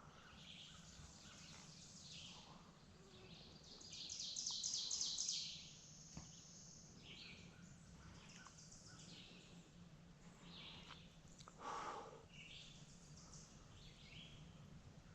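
Songbirds calling and singing in spring woods, faint overall. A rapid, high trill stands out about four seconds in, and a short, lower call stands out near the end.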